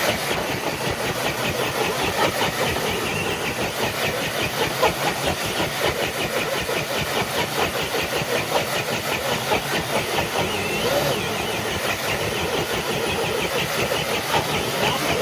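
Electric RC crawler truck pulling a weighted dead sled under full load: its motor and geartrain running continuously with a fast, even rattling pulse.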